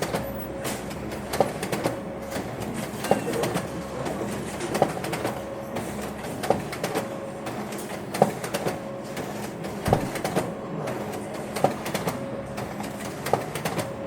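Printer running: a steady mechanical hum broken by a sharp knock that repeats evenly, about once every 1.7 seconds.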